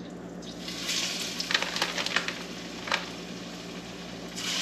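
Breaded catfish pieces going into hot frying oil in a stainless steel skillet, sizzling with sharp crackles and spatters. The sizzle swells about a second in and again near the end as more pieces go in.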